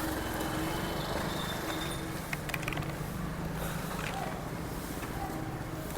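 Outdoor street ambience with a motor vehicle's engine running steadily nearby, slowly fading away, and a few faint clicks about two and a half seconds in.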